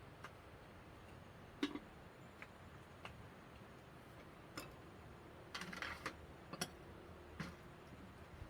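A few faint, irregular clicks and light taps, with a small cluster of them a little past the middle, over a quiet background.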